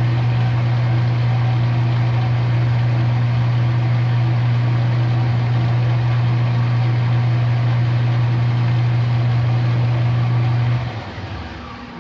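Metal lathe running out of back gear with a loud, steady low hum while a bushing is machined; it is switched off about eleven seconds in and spins down.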